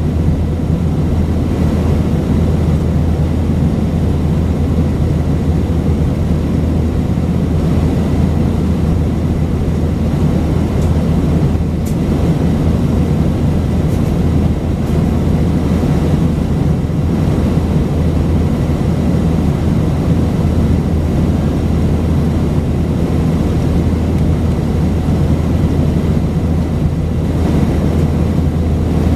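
Steady cabin noise of an Airbus A319-132 in flight: its IAE V2500 turbofan engines and the rushing airflow heard from inside the cabin, a constant low hum under an even roar.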